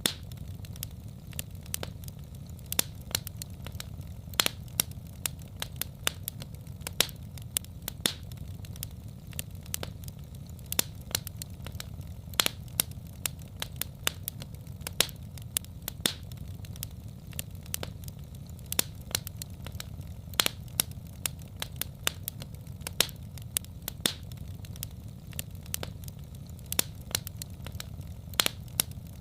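Wood fire crackling in a fireplace: sharp irregular pops and snaps, several a second, over a steady low rumble.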